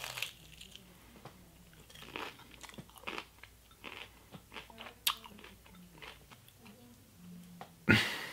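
Person chewing a crispy fried-cheddar wrap around pickles, with irregular crunches as the lacy cheese breaks between the teeth and one loud crunch near the end.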